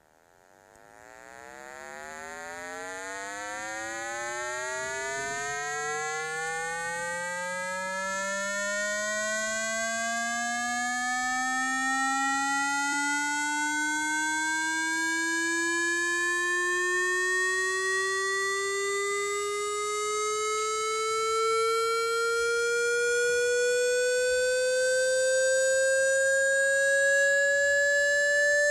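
Water running into a container, its resonant tone rising steadily in pitch as it fills, the rise slowing toward the end and growing louder.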